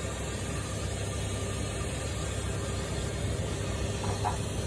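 Airlift cooling-system vacuum filler drawing coolant into the evacuated cooling system: a steady rushing noise with a low hum underneath.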